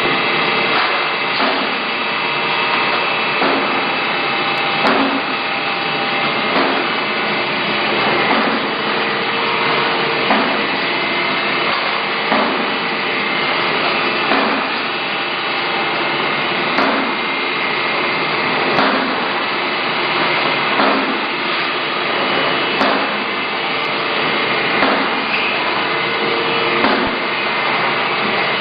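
Production-line machinery running steadily with a mix of humming tones, and a knock about every two seconds.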